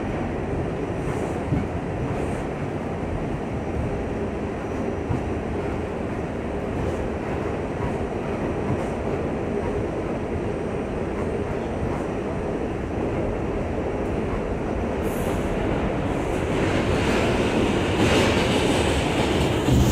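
An R68 subway car running between stations, heard from on board: a steady rumble of wheels on rail with faint clickety-clack. It grows a little louder over the last few seconds.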